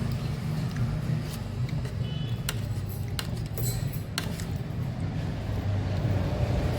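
Steady low rumble of street traffic, with a few sharp clicks and a brief high squeak about two seconds in.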